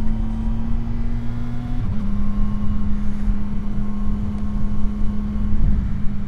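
CFMOTO 675 SR-R's inline three-cylinder engine running at a steady cruise under way. About two seconds in it briefly drops off, as on a throttle change or shift, then holds a slightly lower steady note.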